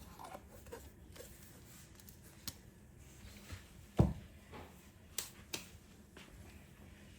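A few scattered sharp clicks and one louder knock about four seconds in: small objects or tools being handled and set down.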